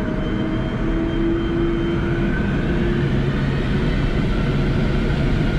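Boeing 747-400's jet engines heard from the flight deck, a steady rumble with faint whining tones that step up in pitch while the loudness slowly rises: the engines spooling up as thrust is advanced for the takeoff roll.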